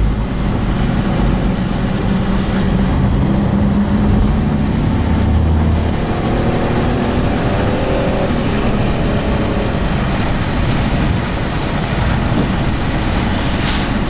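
Car driving on the highway: steady road and engine noise, with the engine note rising for a few seconds about midway.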